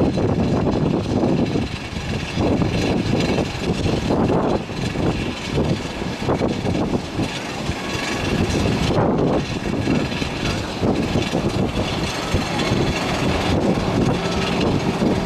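Gusty wind buffeting the microphone in irregular surges, over the steady rush of airliner jet engines.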